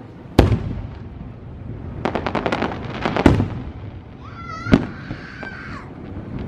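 Fireworks shells bursting overhead. A loud bang comes first, then a rapid string of crackling pops about two seconds in that ends in another bang, and a third bang a little later.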